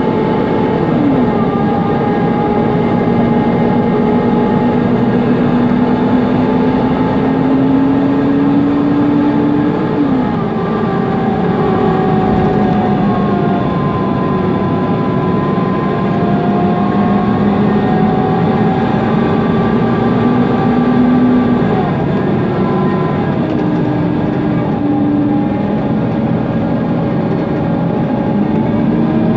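Mercedes-Benz Conecto NGT city bus heard from inside while driving: the running of its OM 936 G natural-gas engine and the whine of its ZF Ecolife six-speed automatic over road noise and the loud cooling-fan noise. The pitch climbs slowly as the bus gathers speed, then drops sharply at gear changes about 10 seconds in and again near 22 seconds.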